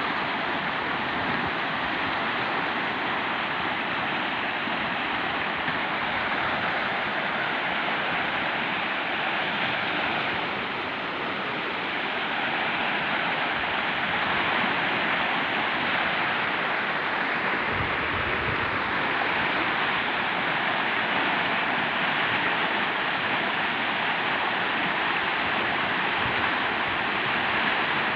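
River in flood, its water rushing steadily.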